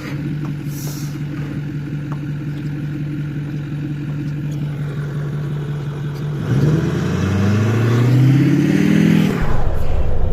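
Ford F-350 pickup engine idling steadily, then revving up with a rising pitch about six and a half seconds in, before the note drops to a lower, rougher sound near the end.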